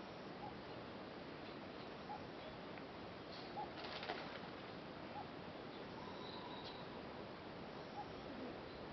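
Faint short bird calls repeating about every second and a half over a steady background hiss of open-air ambience, with a brief noisy burst about four seconds in.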